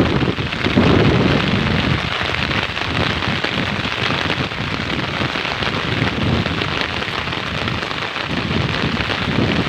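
Heavy rain falling steadily, a dense even hiss of drops. Low rumbling swells come through in the first couple of seconds and again near the end.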